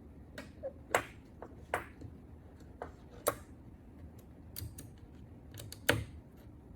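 Irregular sharp clicks and light taps from handling the metal parts and switches of an Ilco 017 key duplicator, with the loudest about one, two, three and six seconds in.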